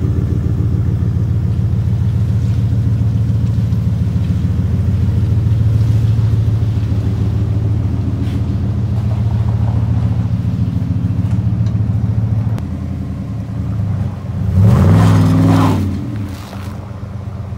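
Pickup truck engine idling steadily, then briefly rising and falling in pitch about fifteen seconds in.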